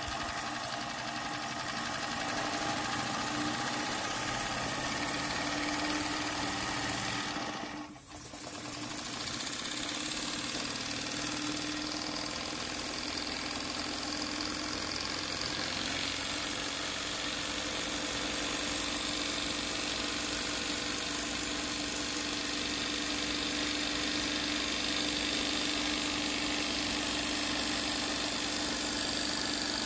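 Jensen 20-S model steam engine running fast on about 30 psi of steam, driving a small generator: a steady, continuous mechanical running sound. The sound dips briefly about eight seconds in, then picks up and gets slightly louder.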